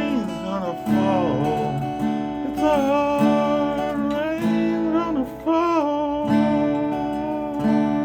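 Instrumental close of a folk song: acoustic guitar strummed about once a second, with a held, gliding melody line over the chords.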